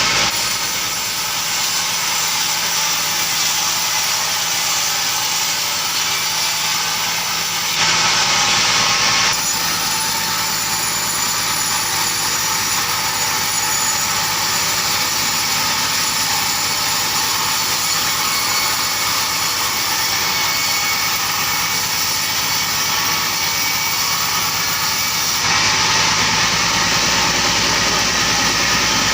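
Engine-driven saw cutting through heavy timber, running steadily under load, louder briefly about eight seconds in and again near the end.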